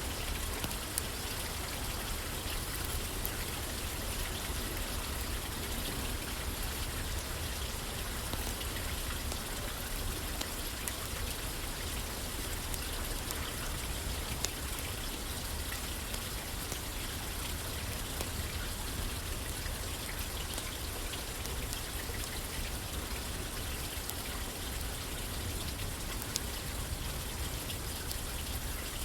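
Steady rain falling on a roof, with scattered sharp ticks.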